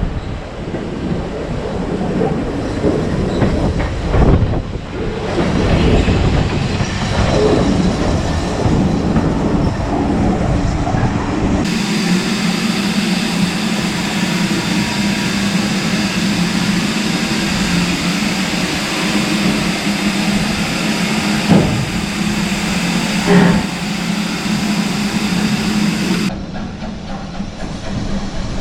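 Steam train at a station: rumbling running noise from the locomotive and carriages with a few knocks. Then a steady hum with hiss starts abruptly about twelve seconds in and cuts off a few seconds before the end.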